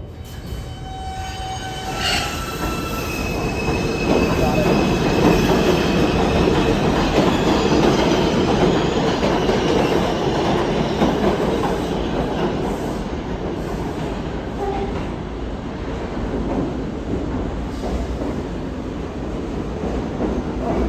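R62 subway train on the 6 line running on the track, its wheels squealing for the first few seconds, with the rumble growing louder over the first four seconds and then holding steady.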